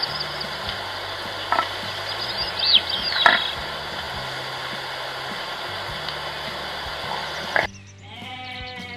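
Steady noisy outdoor ambience with a few short calls, then, after a sudden change about three-quarters of the way through, a bleat from a sheep or goat.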